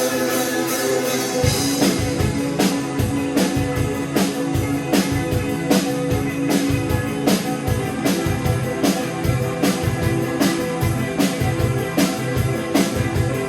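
Rock music played by a band with drum kit and guitar, in a steady beat; the low drum hits come in about a second and a half in.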